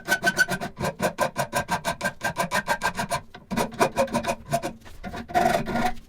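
Rapid back-and-forth rasping strokes of a hand tool, like a file or wire brush, worked on a metal vise part, several strokes a second. A faint ring sounds from the metal, and the strokes stop suddenly at the end.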